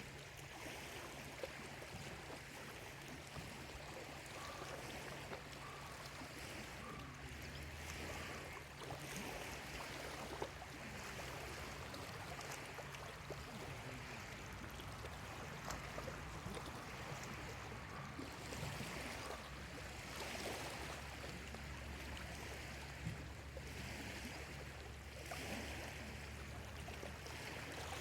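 Small lake waves lapping at the shore, washing in every few seconds. A bird gives three short calls about five seconds in.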